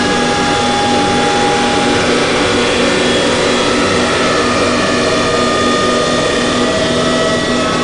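Harsh noise drone music: a loud, unbroken wall of distorted noise with several long held tones running through it, some of them sliding slowly in pitch, and no beat.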